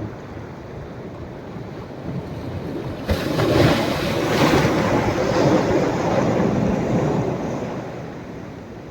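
Sea waves on a beach at rising tide: over the steady wash of the surf, a wave breaks about three seconds in with a sudden rush, then washes up the shore and fades away over the next few seconds.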